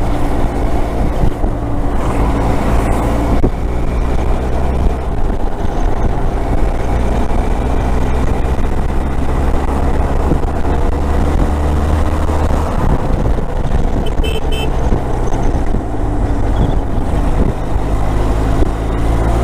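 Motorcycle engine running steadily at cruising speed, under a continuous rush of wind and road noise.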